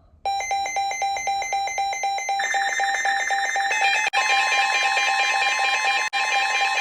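Weather alert radio alarms going off for a new warning: rapid electronic beeping starts abruptly. A second, higher beeping joins a couple of seconds in, then a steady tone near 1 kHz about four seconds in, typical of the NOAA 1050 Hz warning alarm tone.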